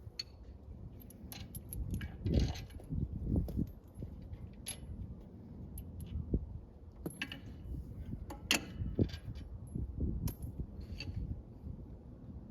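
Hand tools and small metal parts clinking and clicking now and then, with a couple of dull thumps about two and three seconds in.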